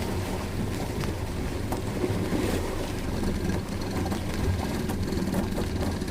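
Small fishing boat's motor running steadily under way, with wind and water noise over it.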